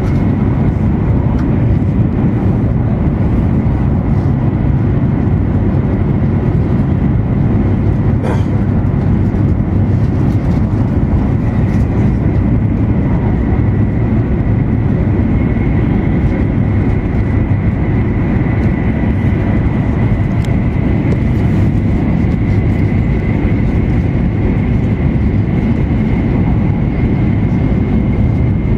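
Steady cabin noise of an E2 series Shinkansen running at high speed. A strong low rumble carries a thin, steady high whine, with one faint click about eight seconds in.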